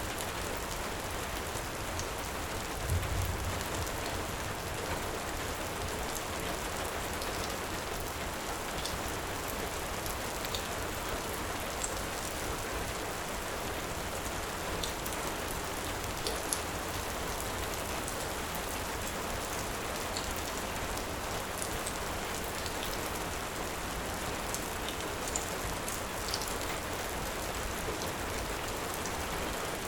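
Heavy, steady rain with a wood fire crackling in scattered sharp pops. A brief low thump about three seconds in.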